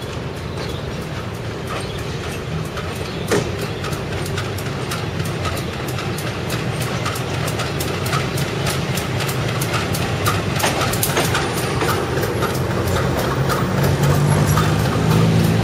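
Train running on the rails, its wheels clicking over the rail joints in an even rhythm over a steady rumble, with one louder knock about three seconds in. A low engine hum grows louder near the end.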